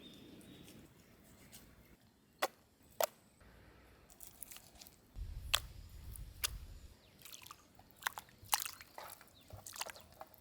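Knife deboning raw chicken: scattered sharp clicks and taps of the blade, with a low rumble for about two seconds past the middle.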